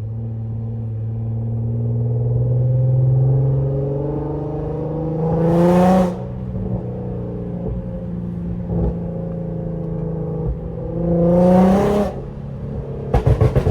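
Car engine accelerating hard, its pitch climbing steadily through a gear and ending in a loud rush of noise as it shifts, twice. A quick run of sharp pops follows near the end.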